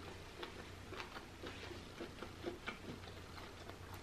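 Faint close-mic chewing: soft, irregular wet mouth clicks, several a second, as seafood is chewed, over a low steady hum.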